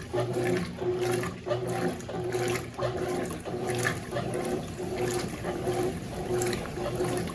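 Consul CWS12 top-load washing machine agitating a load of jeans in water. The drive motor hums in short strokes about twice a second as the agitation reverses, with water sloshing throughout.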